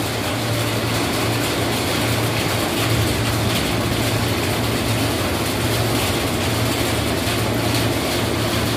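Electric commuter train standing at the platform with its doors open, its equipment giving a steady low hum under an even hiss.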